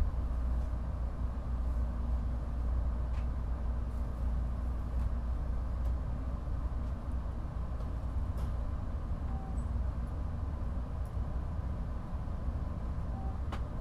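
Steady low hum and rumble of a 700 Series Rail Star Shinkansen standing at a station platform, with a few faint clicks.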